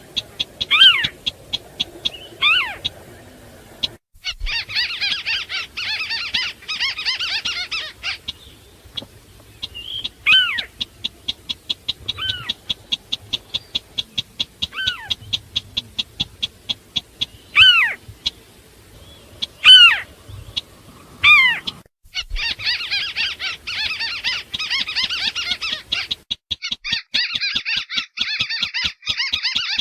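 Calls of crakes: a steady rapid series of short high ticks, about three to four a second. Over it come repeated downward-sliding squealing notes and three long bouts of dense, high chattering.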